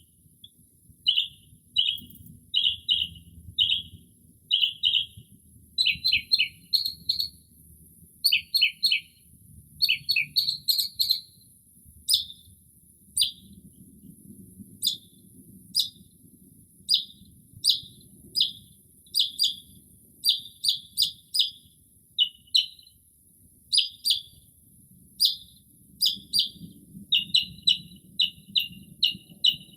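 Northern mockingbird singing: runs of short chirping notes, each phrase repeated several times before it switches to another, mimicking the calls of other birds. A faint steady high hiss runs underneath.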